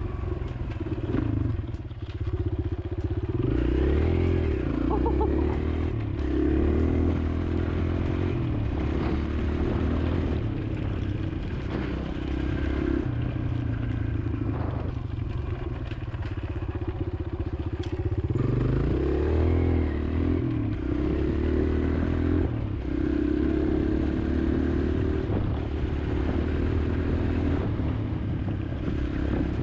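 2018 Kawasaki KLX140L's air-cooled single-cylinder four-stroke engine running under riding load, its pitch climbing and dropping again and again as the throttle is worked and gears change. It runs smoothly.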